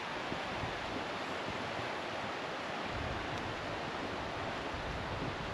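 Steady rushing of a mountain stream, with wind rumbling on the microphone from about halfway through.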